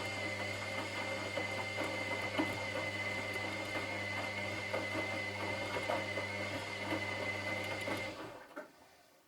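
Washing machine running: a steady low hum with a high whine and light rattling, which stops about eight seconds in, followed by one soft knock.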